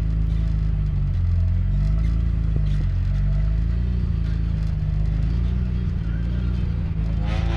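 Car engine running steadily at low revs, its pitch shifting slightly up and down. A brief higher-pitched sound comes near the end.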